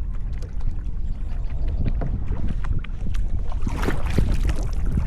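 Sit-on-top kayak paddling: water splashing and dripping from the paddle blades, with wind rumbling on the microphone. A louder splash comes about four seconds in.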